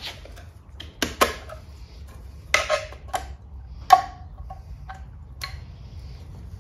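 Steel bolts and hand tools clinking and knocking on a workbench: a handful of sharp metallic clinks, the loudest about four seconds in, ringing briefly.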